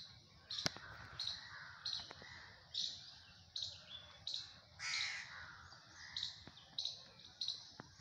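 A bird calling: a short high note repeated about twice a second, with one longer, harsher call about five seconds in.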